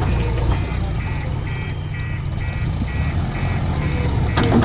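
Diesel engine of heavy machinery running with a steady rumble, under an electronic warning beeper sounding about twice a second, typical of a backhoe loader's reversing alarm. A single knock comes near the end.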